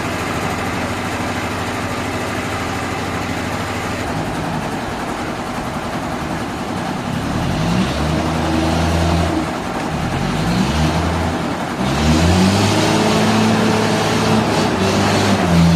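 An engine running steadily, then revving up and down several times from about four seconds in, with a harsher noise building over the last few seconds.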